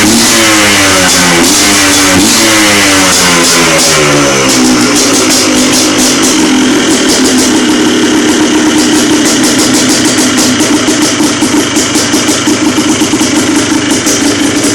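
Yamaha Blaster's two-stroke single-cylinder engine running after a cold start on full choke: it revs up and down a few times in the first few seconds, then settles into a steady idle that turns uneven and pulsing near the end.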